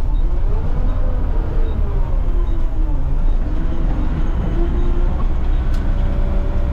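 Front-loader garbage truck's engine and drivetrain running while driving, heard from inside the cab: a loud, steady low rumble, with the engine's pitch rising and falling a little.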